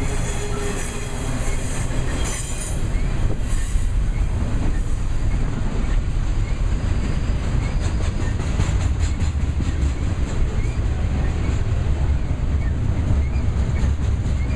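Intermodal freight train cars rolling past with a steady low rumble of steel wheels on rail. A thin high wheel squeal sounds over the first two seconds, and a run of wheel clicks over rail joints follows in the middle.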